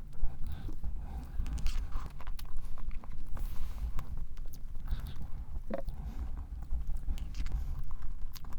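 Close-miked chewing of soft strawberry cream cake, with irregular wet mouth clicks over a low rumble.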